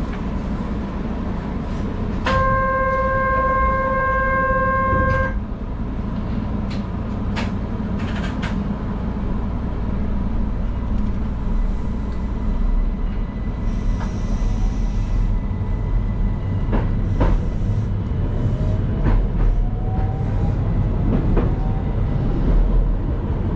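Keihan 800 series train sounds its horn once, a steady pitched tone lasting about three seconds, over the low hum of the standing train. Later the train pulls away, with a faint rising motor whine and wheels clicking over the rails.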